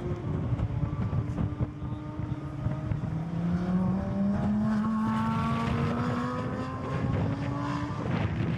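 Sports car engine accelerating hard under full throttle, its note climbing steadily for several seconds, then dropping suddenly with an upshift near the end.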